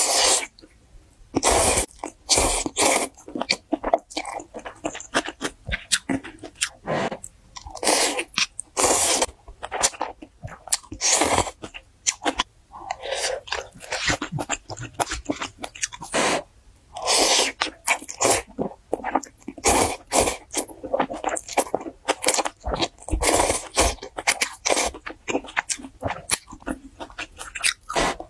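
Close-miked eating: a person chewing and crunching food in irregular, sharp bursts.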